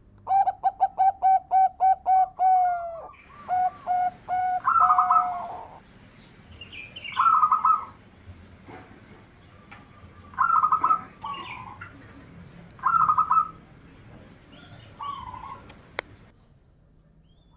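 Zebra dove (perkutut) cooing: a quick run of about ten short notes, then several separate coo phrases every two to three seconds. A single sharp click comes near the end.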